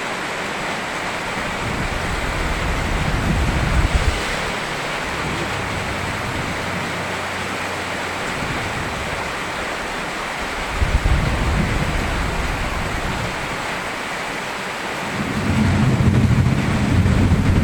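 Steady rain with rolls of thunder: a low rumble a few seconds in, another about eleven seconds in, and a longer, louder rumble building near the end.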